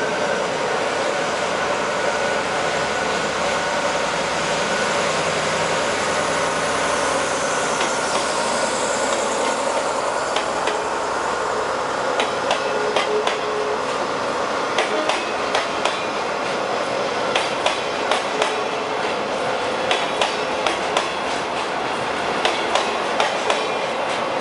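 DE10 diesel-hydraulic locomotive running in and past, then a long train of Hoki 10000 coal hopper wagons rolling by, steel wheels clacking over the rail joints in repeated groups of sharp clicks.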